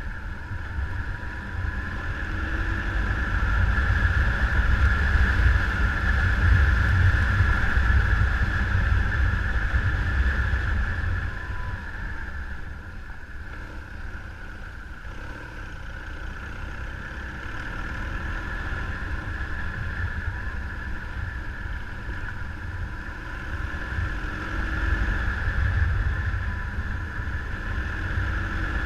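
Motorcycle riding: a steady engine drone under heavy wind rumble on the microphone, swelling and easing over several seconds.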